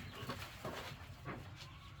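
Chickens clucking: a few short separate clucks over low background noise.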